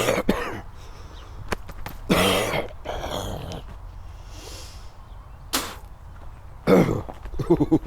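A man coughing and clearing his throat several times in short bursts, with breathing in between.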